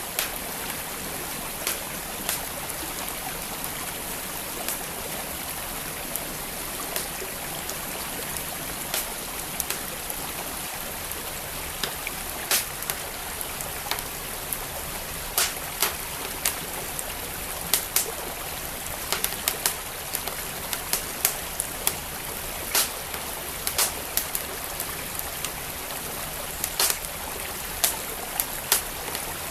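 Wood fire crackling with sharp, irregular pops over the steady rush of a flowing stream; the pops come more often in the second half.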